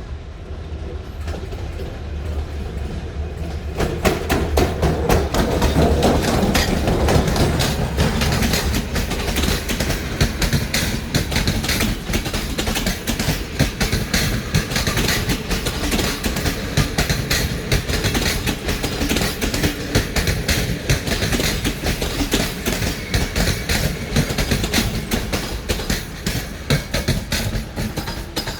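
Passenger train rolling past on arrival, its wheels clicking rapidly over rail joints. A low drone sounds in the first few seconds, and the train gets louder about four seconds in.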